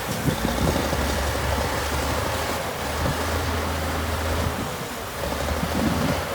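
Heavy diesel engine of earthmoving equipment running with a steady low drone under a noisy rumble.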